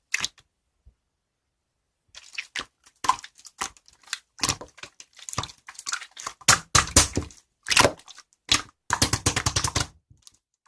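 Hands handling an object: a quiet start, then from about two seconds in a dense run of irregular clicks, taps and crinkles.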